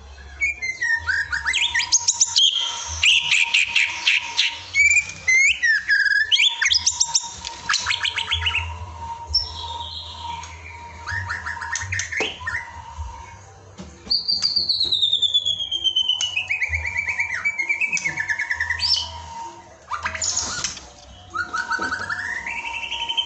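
White-rumped shama (murai batu) song: a long, varied run of loud whistles, rapid trills and long falling glides, played as a bait recording to get a caged shama singing. A steady faint tone runs underneath.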